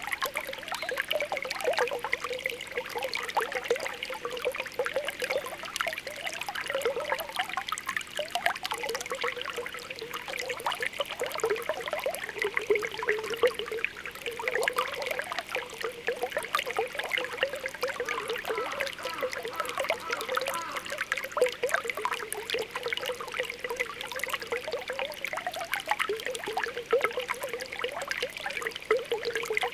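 Spring water welling up and bubbling steadily, a continuous mix of small pops and gurgles over a trickling flow.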